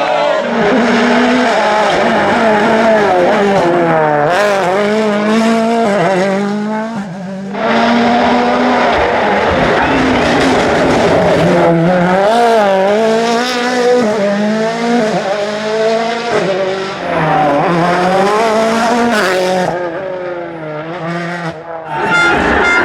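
Rally car engines revving hard, the pitch climbing and dropping again and again through gear changes and off-throttle lifts, with a short lull about seven seconds in and another near the end as one car goes and the next comes.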